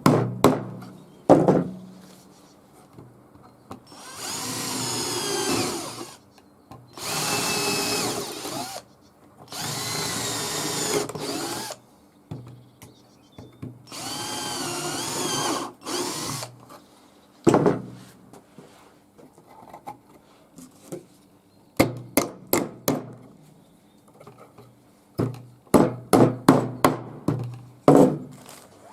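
Electric power drill running in four bursts of about two seconds each, its motor pitch wavering under load. These are followed near the end by a quick series of sharp knocks.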